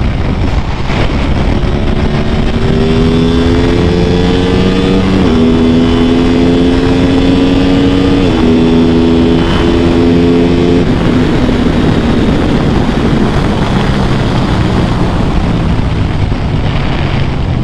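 Aprilia RS 660's parallel-twin engine accelerating hard, its pitch climbing and then dropping sharply on upshifts about five seconds in and again about three seconds later. Around eleven seconds in it eases off to a lower, steady cruise.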